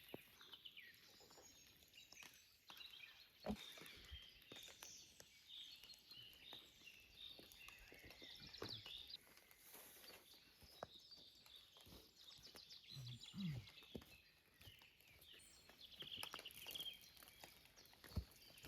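Faint birdsong of short chirps and quick trills, with a few scattered soft thumps and taps, the loudest about three seconds in and near the end.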